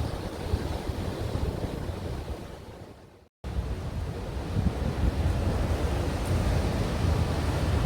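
Ocean surf breaking on the shore, with wind rumbling on the microphone. The sound fades away about three seconds in, drops out completely for a moment at an edit, then comes back.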